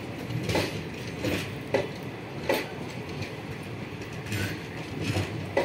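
ICF passenger coaches rolling past on the track, a steady rumble of wheels on rail broken by sharp clickety-clack clacks about once or twice a second as the wheels cross rail joints.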